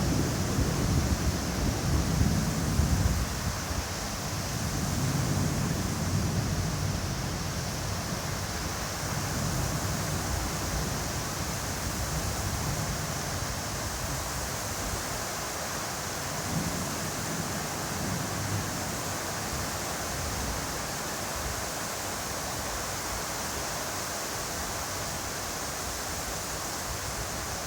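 Heavy rain in strong wind: a steady rain hiss, with wind gusts buffeting the microphone as a low rumble in the first few seconds before settling into an even downpour.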